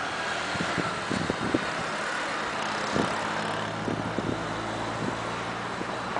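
Steady rushing wind noise, with a low, even engine hum joining about three seconds in.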